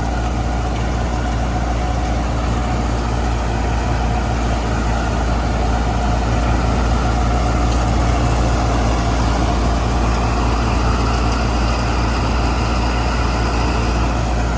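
Old Clayson 8080 combine harvester running steadily while working, its engine and machinery making a continuous low drone.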